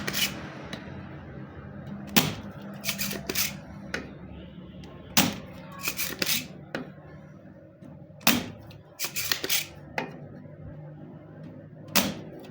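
A brush scrubbing an inverter circuit board: short scratchy strokes in small groups about every three seconds, over a faint steady low hum.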